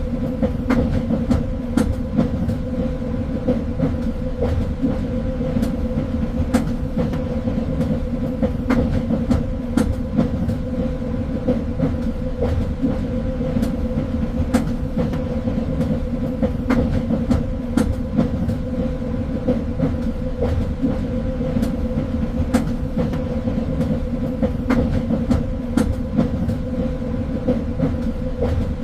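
Train running along the rails: a steady low rumble with a constant hum, and frequent clicks and knocks from the wheels on the track.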